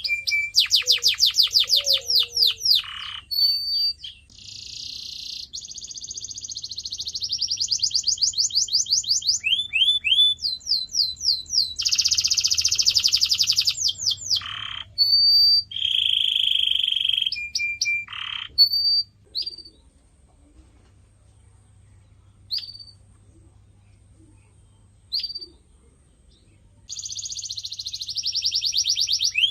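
Domestic canary singing: fast trills of quickly repeated rising notes and rolls, broken by held whistles. A quieter stretch of single chirps comes in the last third, and the song picks up again near the end.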